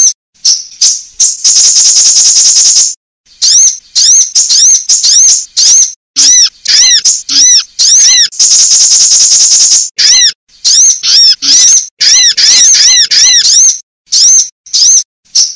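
Female sunbird calls from a bird-lure recording: quick series of sharp, high, arched chip notes broken twice by a buzzy rattling trill of about a second and a half. Loud and close.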